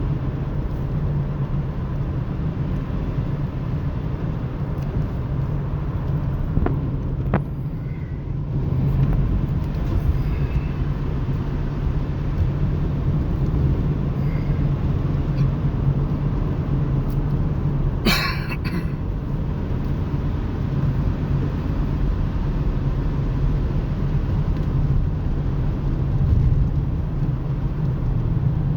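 Car driving, a steady low rumble of engine and road noise, with a brief sharp crackle about eighteen seconds in.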